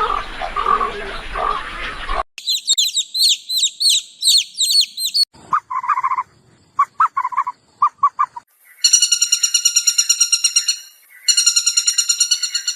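A string of short animal-call recordings cut one after another: a noisy stretch, then quick repeated high chirps, then brief lower calls, and from about 9 s two long, fast, rattling trills.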